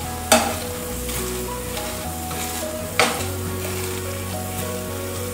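Pav bhaji masala of tomato and onion sizzling in a nonstick frying pan as it is mashed with a potato masher. The masher knocks sharply against the pan twice, a few seconds apart.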